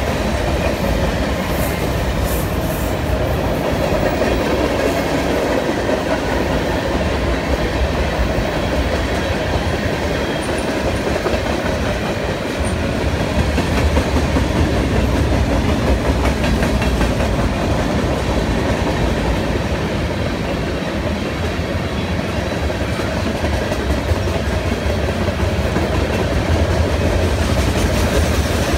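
Freight train cars, tank cars and covered hoppers, rolling past close by, their steel wheels running on the rails in a steady noise with no horn.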